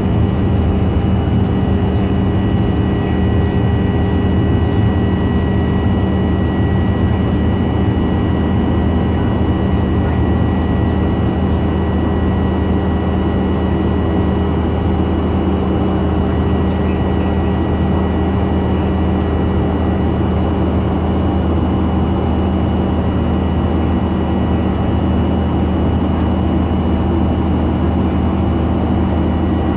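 Steady cabin drone of a Boeing 737-900 airliner, a mix of jet engine and airflow noise, holding at one level with a few faint steady tones over it.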